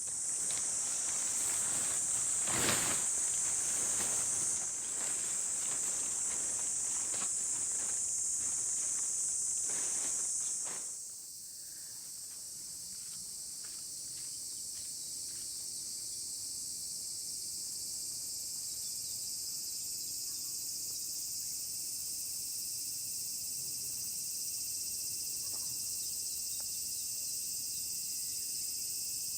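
A steady, high-pitched chorus of insects in the summer woods. For about the first eleven seconds it comes with irregular knocks and rustles close by. Then the sound shifts abruptly to a quieter background where the insect chorus goes on alone.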